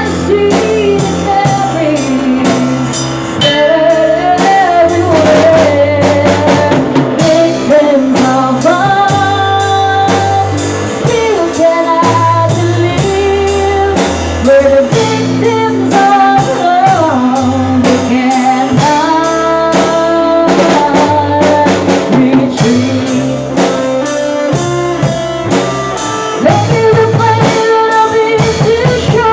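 A live rock band playing a ballad: drum kit keeping a steady beat under bass and guitars, with a lead melody line with vibrato carried over the top.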